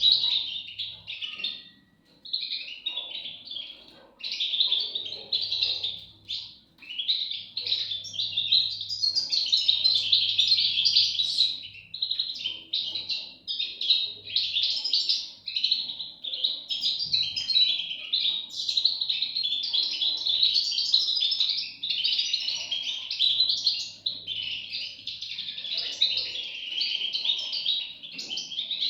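European goldfinch chicks calling: a dense, almost unbroken run of high chirps with only short pauses.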